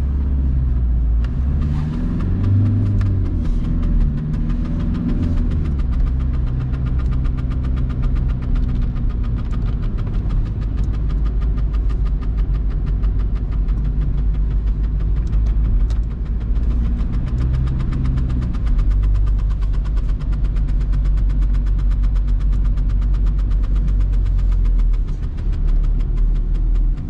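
VW Golf Mk3's 1.9 TDI (1Z) four-cylinder turbodiesel heard from inside the cabin while driving, a steady low drone with a fine, even clatter. Its pitch rises and falls twice as the car accelerates and changes gear.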